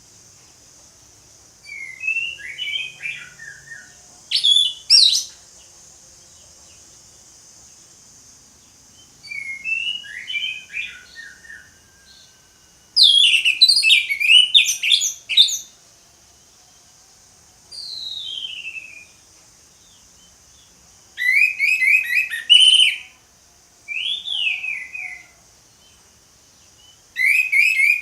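Orange-headed thrush (anis merah) singing: about seven phrases of rapid whistles, trills and slurred notes, each a second or two long, with short pauses between them. A steady high hiss runs underneath.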